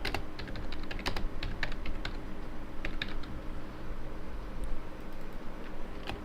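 Computer keyboard typing: irregular clicking keystrokes, several clusters of quick taps, over a low steady background hum.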